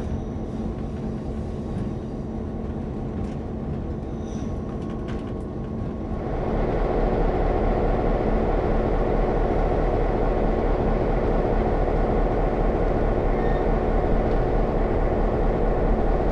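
A train running, a steady rumble with an engine hum, growing louder and fuller about six seconds in.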